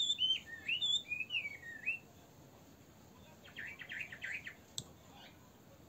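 A songbird singing a run of warbling whistled notes that swoop up and down, breaking off about two seconds in, then a short burst of quick chirps near the four-second mark. A single sharp click comes shortly before the end.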